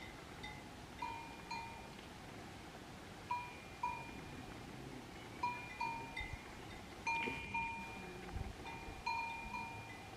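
Livestock bell (chocalho) clanking irregularly, mostly in quick pairs of ringing strikes that die away, over a faint steady background.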